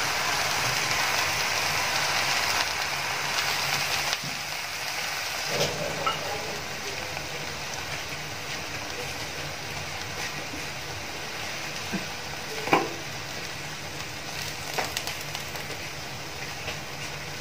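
Stir-fried vegetables sizzling in a kadhai just after the gas is turned off: the hiss drops noticeably about four seconds in as the pan cools. A fainter sizzle carries on, with a few light clicks.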